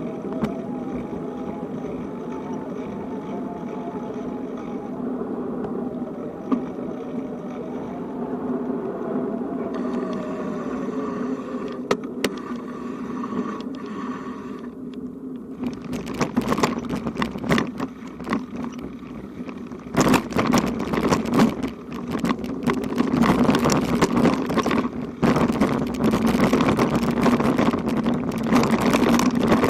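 Travel noise while riding: a steady rumbling hum with a wavering tone, turning rough, rattling and crackling from about sixteen seconds in, as over a bumpy surface.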